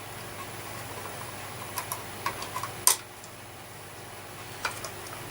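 A few light clicks and taps of small hard parts being handled, with one sharper click about three seconds in, over a faint steady hum.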